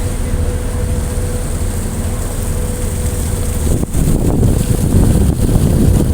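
A ship's engine droning steadily under wind noise. Almost four seconds in there is a sudden cut to a louder, rougher rumble of strong wind buffeting the microphone.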